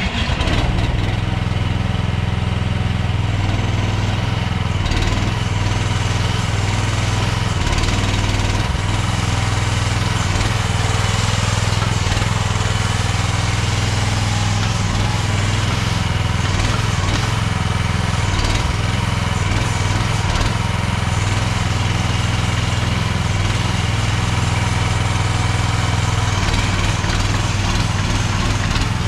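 Small engine of a CFG Industrial MX12RX mini excavator running steadily.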